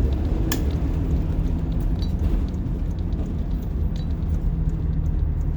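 The rear-mounted diesel engine of a 1990 Blue Bird All American school bus runs steadily under way, heard from inside the bus as a low rumble with road noise. A sharp click about half a second in and a few lighter rattles come from the cabin.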